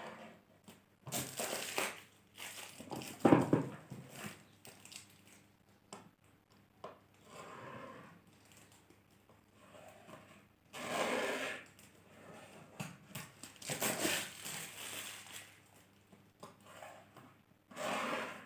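Packaging being handled while a coffee maker is unboxed: irregular crinkling, rustling and tearing of plastic and cardboard in bursts of varying length, with a sharper knock about three seconds in.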